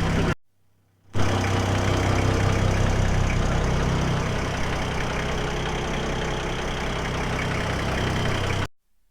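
An engine running steadily at an even speed, with two brief silent breaks where the footage is cut.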